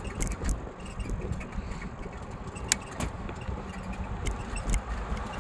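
Bicycle ride heard from the rider: wind rumbling on the microphone, with scattered clicks and light rattles from the bike, one sharper click a little past halfway.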